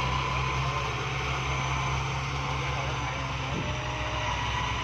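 A vehicle engine running steadily: a constant low drone with a thin, steady high whine above it.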